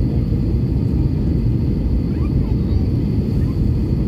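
Airbus A319 airliner heard from inside the cabin: a steady low rumble of its jet engines and airflow.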